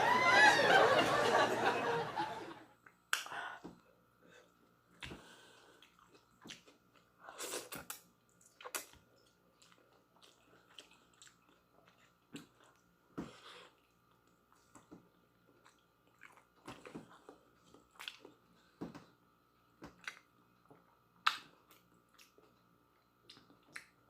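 A person eating noodles and chili peppers close to the microphone: intermittent chewing, biting and soft smacking clicks. A brief loud burst of voice comes in the first couple of seconds.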